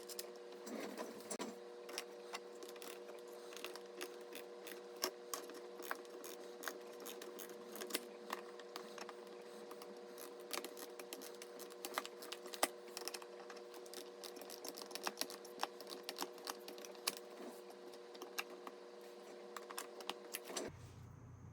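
Rapid, irregular small clicks and taps of PC hardware being handled and fitted, over a steady hum. The sound changes abruptly near the end.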